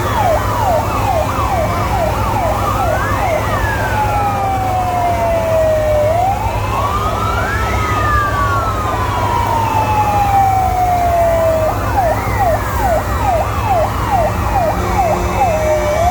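Fire engine sirens sounding together: a slow rising and falling wail runs throughout, while a fast yelp of about three sweeps a second plays at first, drops out partway through and comes back near the end. A steady low rumble lies underneath.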